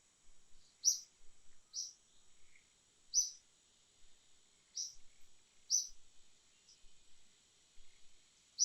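Short, high chirps repeating roughly once a second, over a steady high-pitched insect drone: a bird calling amid buzzing insects.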